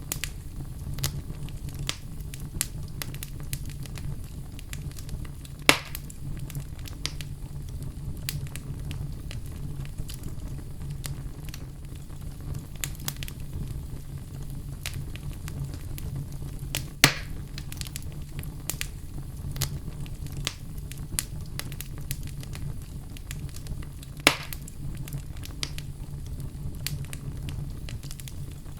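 Wood fire in a fireplace crackling steadily over a low, even rumble, with many small snaps and three loud pops, roughly a quarter, halfway and five-sixths of the way through.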